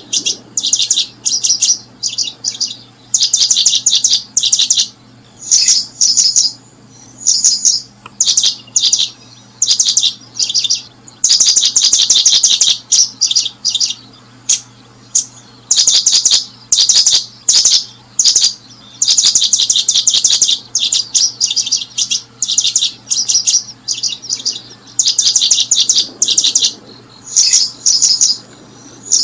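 Small bird chirping in short bursts of rapid high notes, repeated over and over with brief gaps, over a faint steady low hum.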